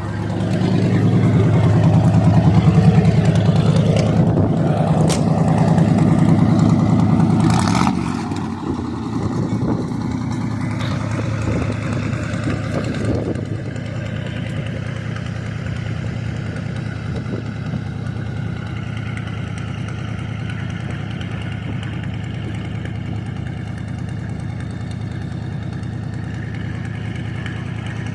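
Car engine running louder for the first several seconds, then dropping back about eight seconds in and settling into a steady idle, with a few knocks while it is louder.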